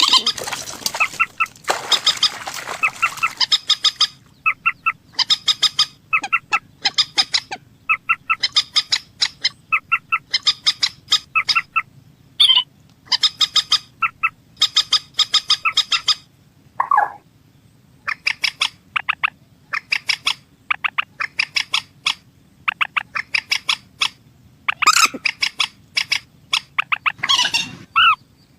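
Rail-family birds calling: clusters of short, rapidly repeated call notes over and over, with a few louder, lower calls among them.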